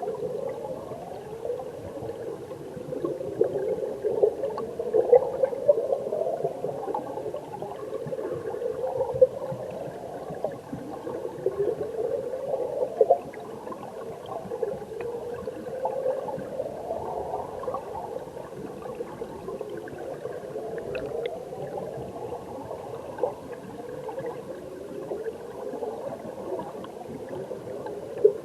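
Mountain stream water recorded underwater: a steady muffled bubbling and gurgling of the current, full of short rising whistle-like chirps from air bubbles.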